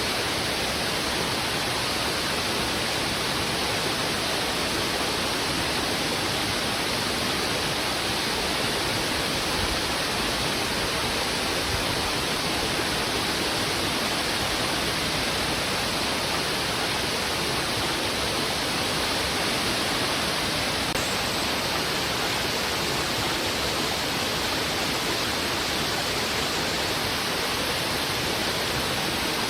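Heavy river water rushing steadily over rocks.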